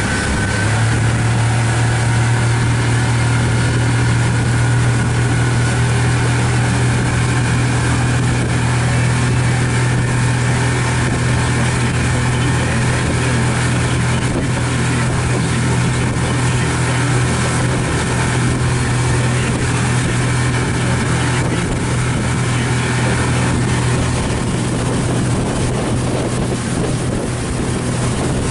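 Pontoon boat's outboard motor running steadily while cruising, a constant low drone that picks up slightly about half a second in, with rushing wind and water noise.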